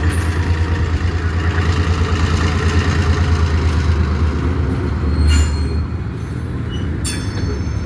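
Freight train rolling past, a steady low rumble with a couple of sharp knocks about five and seven seconds in.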